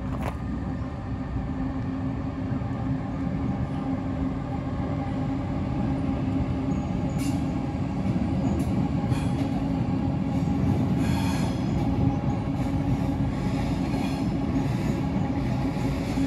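Electric passenger train (an SBB locomotive hauling coaches) rumbling steadily across a steel truss bridge, with a constant low hum, growing a little louder as it passes. Short high-pitched wheel squeals cut through several times, the longest about 11 seconds in.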